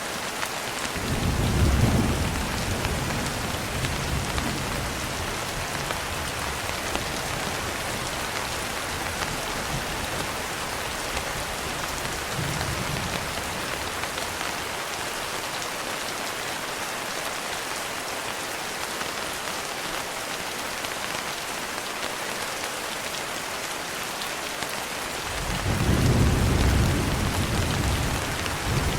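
Steady rain hissing throughout, with low rolls of thunder rumbling about a second in, faintly again midway, and more strongly near the end.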